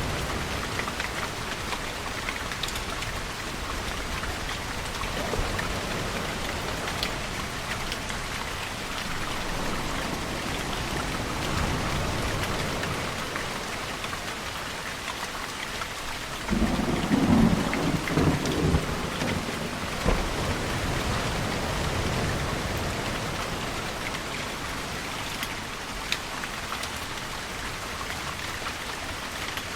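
Steady rainfall, with a sudden crack and rumble of thunder about halfway through that lasts a few seconds.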